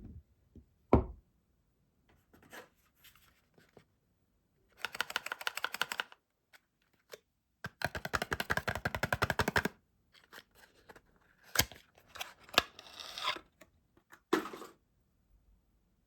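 Soap packaging being torn open and unwrapped: two long bursts of rapid crackling tearing, with a knock about a second in and a few sharp clicks and shorter crinkles near the end.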